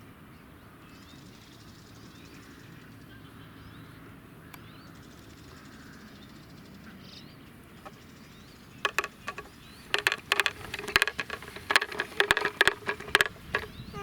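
Faint birdsong over a quiet field for the first half. Then, in the second half, a wooden baby walker's chick toy rattles and clacks in quick, loud runs of clicks as the walker is pushed and its wheels turn.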